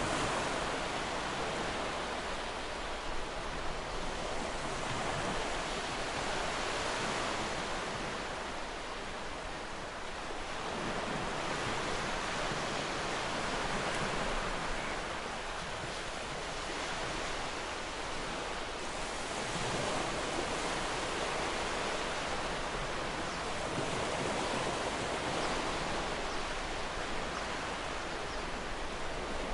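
Ocean surf: waves breaking and washing up the shore in a continuous hiss that swells and eases every few seconds.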